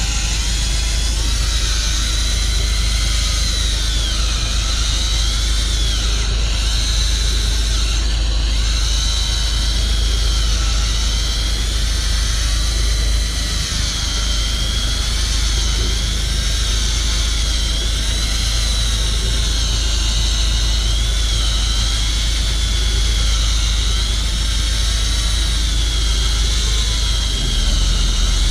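Electric fishing reel motor winding in a hard-pulling fish, its whine rising and falling in pitch as the load changes, over a steady low rumble.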